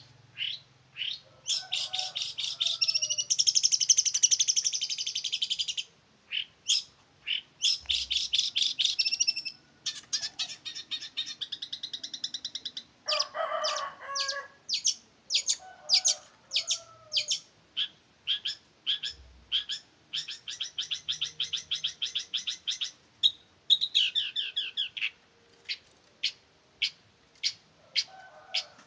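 Male long-tailed shrike (cendet) singing hard: fast runs of sharp, high chipping notes and rattling trills, broken by single notes and short pauses, with a harsher, lower burst about halfway through.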